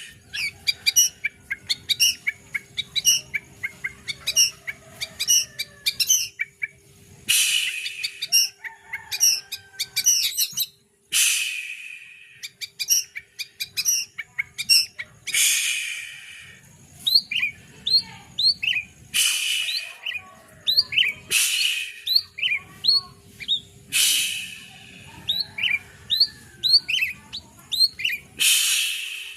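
A songbird singing: quick runs of short, high chirps broken every few seconds by harsh, buzzy bursts about a second long.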